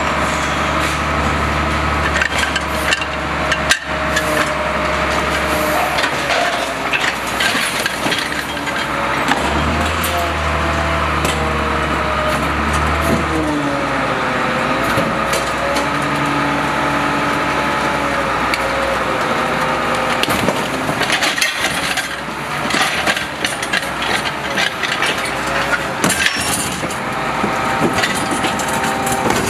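Garbage truck at work: its engine running steadily under a wavering mechanical whine, with scattered knocks and cracks of bins and refuse.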